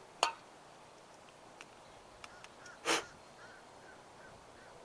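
A sharp click, then about three seconds in a short hiss from an aerosol spray can, with a few faint ticks and faint high chirps between them.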